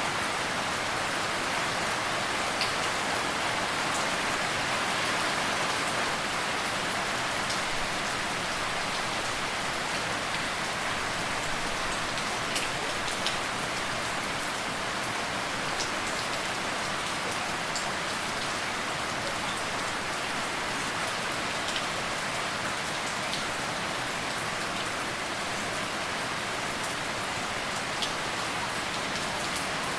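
Steady rain falling, a constant hiss with scattered sharper drop ticks throughout.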